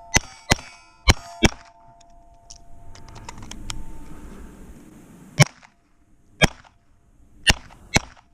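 Pistol shots fired at steel plates: four quick shots in the first second and a half, a pause, then four more about a second apart. A struck steel plate rings on under the first shots, then fades.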